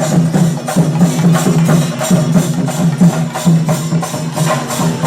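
Kerala devotional folk music: steady rhythmic percussion with jingling and wooden clicking strokes, about three beats a second.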